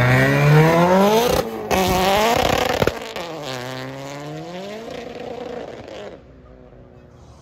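Turbocharged Mazdaspeed3 four-cylinder accelerating hard away, revving up through the gears with two quick shifts, about a second and a half and three seconds in, and fading as the car pulls into the distance.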